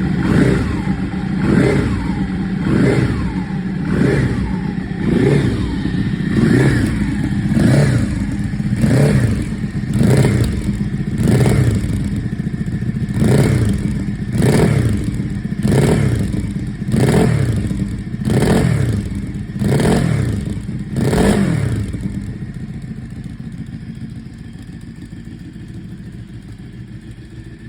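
Ducati 1199 Panigale S's 1198 cc L-twin engine through a full titanium exhaust, revved in short throttle blips about once a second, each rising and falling in pitch. About 21 seconds in the blipping stops and the engine settles to idle, growing quieter.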